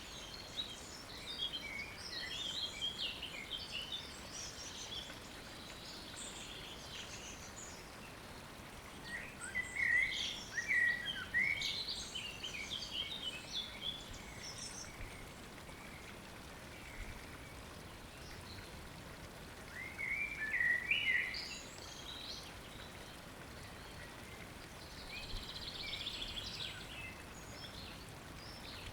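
Wild songbirds singing in short, chirpy phrases, four bursts of song, the loudest about ten and twenty seconds in, over a steady wash of water running and dripping.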